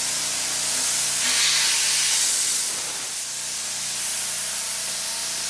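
Compressed air hissing from a leaking airline fitting, swelling louder for about a second and a half around two seconds in. An air compressor runs steadily underneath.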